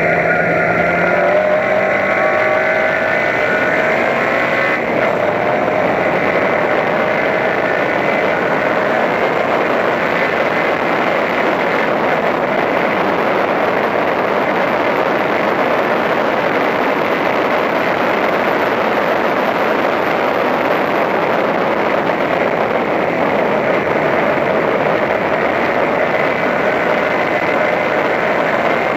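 Race car engine heard from inside the cabin, rising in pitch as it accelerates out of a corner over the first few seconds, then held at high revs down a straight under heavy wind and road noise.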